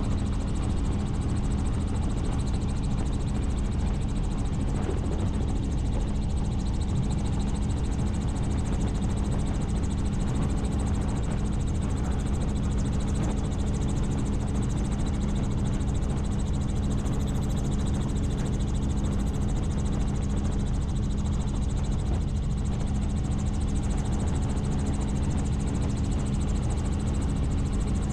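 Helicopter in flight: the rotor and engine drone on steadily, with a constant low hum under dense low rumble.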